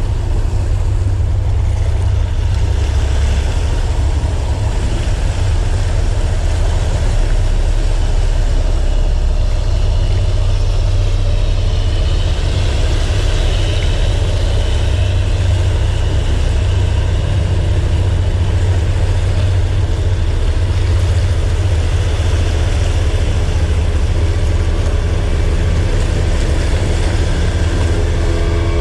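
Motorboat engine running steadily, a continuous low drone.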